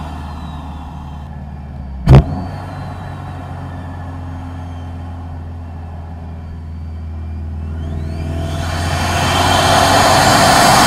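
The 2015 Subaru WRX STI's turbocharged 2.5-litre flat-four, heard through a microphone in the intake. It starts with a low, steady hum at light load under a faint turbo whistle that falls and later rises in pitch. Near the end intake rush and turbo spool build as the throttle opens. A single sharp thump about two seconds in is the loudest sound.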